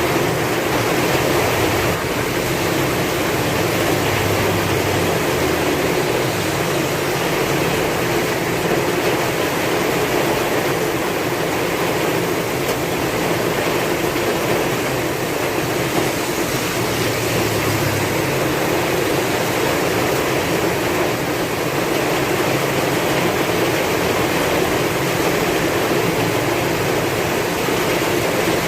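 Heavy rain falling steadily in strong wind, a dense even hiss, with a low rumble of wind swelling a few seconds in and again past the middle.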